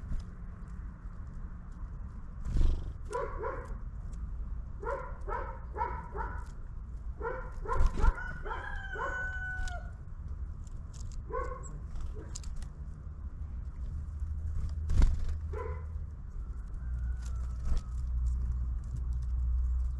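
An animal calling outdoors in short, harsh calls, bunched in groups of two to four with short gaps between the groups. A few louder knocks come about two and a half, eight and fifteen seconds in, over a steady low rumble.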